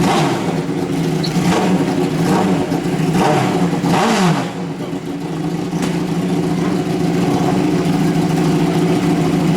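Drag-racing motorcycle engine running, revved up and back down a few times in the first half, then holding a steady idle.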